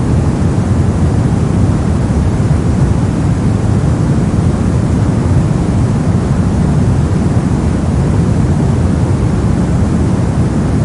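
Continuous white-noise track: a steady, unchanging hiss that is heavier in the low end than in the high end.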